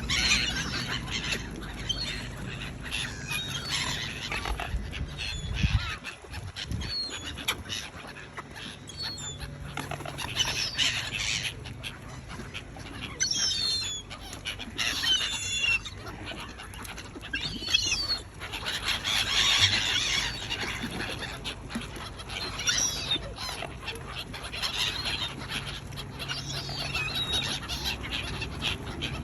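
A flock of waterbirds gathered for bread calls repeatedly, with many short, wavering, high-pitched calls overlapping. A brief low rumble comes about six seconds in.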